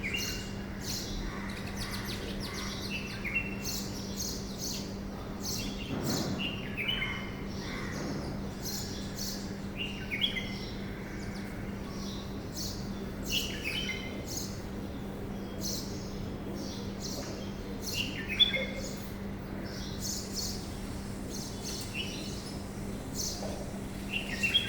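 Birds chirping, with short falling calls every second or two and quick high notes, over a steady low hum.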